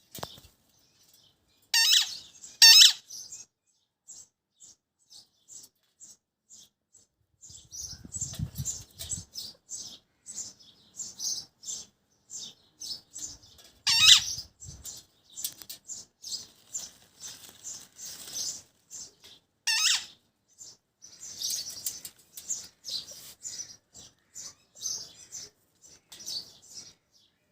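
Pet parrot making many short, high chirps and clicks, broken by a few loud, shrill squawks: two close together near the start, then single ones about halfway through and about two-thirds of the way through. A brief low rumble comes about eight seconds in.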